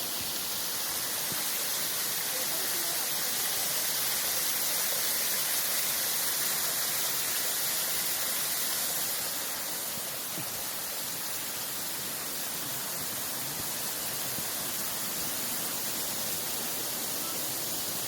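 Steady rush of flowing water, an even hiss strongest in the high end, a little louder for the first several seconds and easing off at about nine seconds in.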